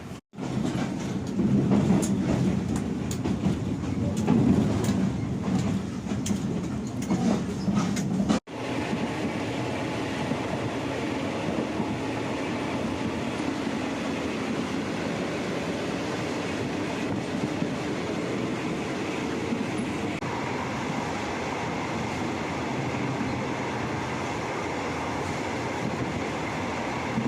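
Train carriage rolling along the track, a steady rumble and rattle with scattered knocks. The sound cuts out briefly just after the start and again about eight seconds in. The first stretch is louder and heavier than the even running that follows.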